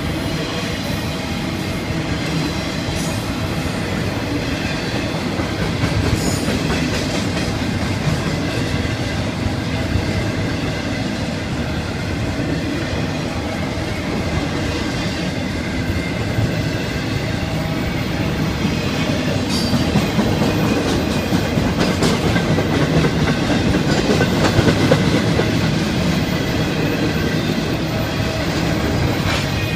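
Florida East Coast Railway intermodal freight train rolling past steadily, its cars and wheels clattering on the rails.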